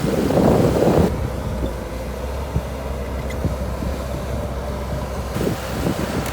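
Bulldozer engine running steadily, with wind buffeting the microphone, loudest in the first second.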